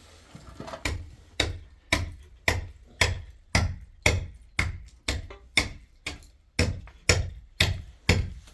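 A steady run of sharp chopping strikes, about two a second, some fifteen blows in all, starting about a second in.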